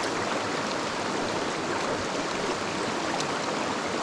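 Mountain stream running fast over rocks: a steady, even rush of moving water.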